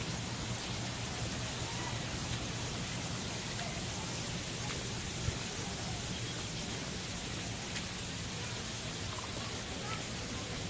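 Steady light rain falling on pavement, an even hiss, with a few faint ticks of drops.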